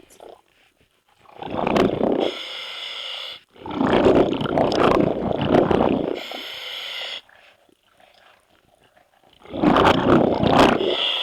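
Scuba diver breathing through a regulator underwater: three rumbling bursts of exhaled bubbles, each followed by a shorter hiss of inhalation.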